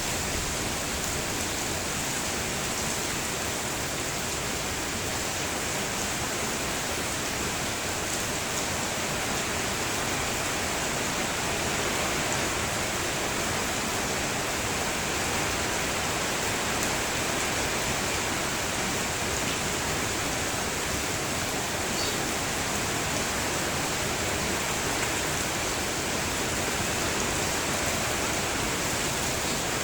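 Steady rain falling, an even hiss of water that holds level throughout.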